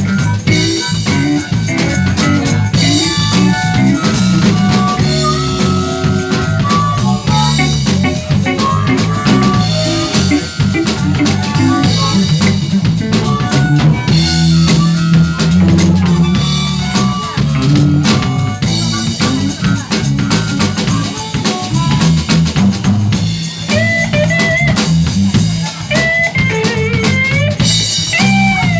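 Live band playing an instrumental passage: drum kit with rimshots and bass drum, a bass line and guitar. Near the end a lead guitar plays bent, sliding notes.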